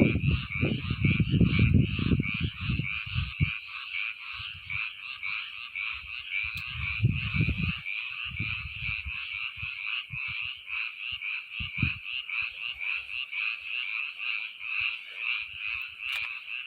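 A chorus of many frogs calling together, a dense, continuous stream of rapid pulsed croaks. Low rumbling bursts come and go in the first half.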